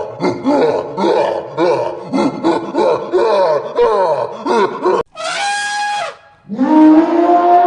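Animal calls: a rapid series of short pitched calls, about three a second, then a different call with a steady high tone, and near the end a long call that rises and then holds.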